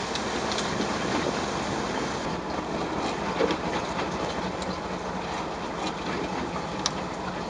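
Steady noise aboard a small fishing boat at sea: the engine running, with water and wind noise on the microphone, and a few faint clicks.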